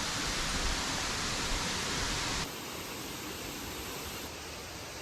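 Steady rush of a waterfall, which drops suddenly to a quieter, duller rush about two and a half seconds in.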